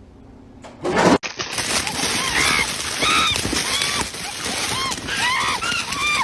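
A loud short burst about a second in, then, after an abrupt cut, many birds calling over one another in short, arched calls over a steady noisy background.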